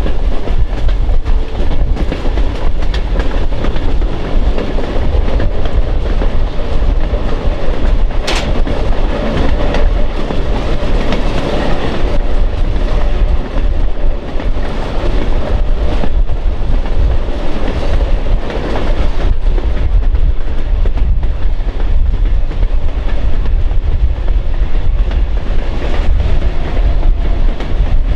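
Train rolling along the rails: a loud, steady rumble with the clickety-clack of wheels over rail joints and an occasional sharp click.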